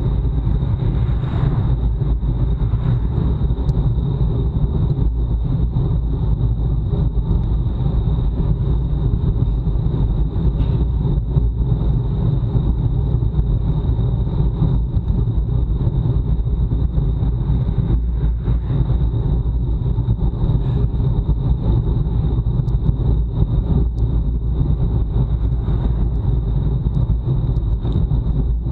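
Wind rushing over a bicycle-mounted action camera's microphone at racing speed: a steady, loud, low rumble, with a thin steady high whine above it.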